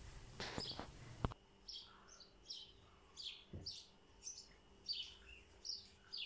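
A small bird chirping faintly: a string of short, high chirps, one every half second or so, with a single sharp click a little over a second in.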